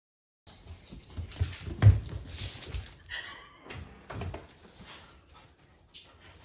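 Dogs moving about, with a series of knocks and thumps, the loudest about two seconds in, and a brief dog whimper about three seconds in.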